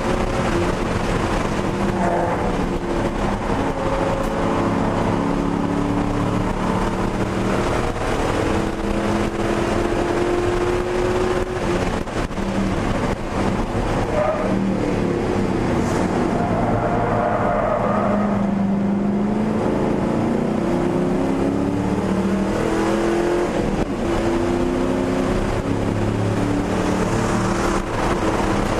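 1999 Ford Mustang GT's 4.6-litre V8, heard from inside the cabin while driven hard on track. The engine note rises and falls repeatedly with the revs, over steady road and wind noise.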